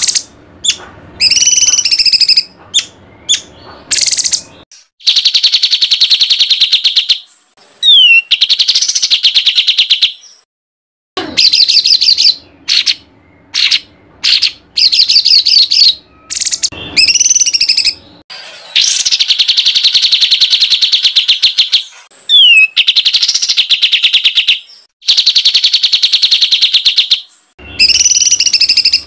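Songbird singing a harsh, tight 'tembakan' tutor song (masteran): loud runs of rapid-fire repeated notes lasting two to three seconds each, broken by short chirps and quick rising whistles.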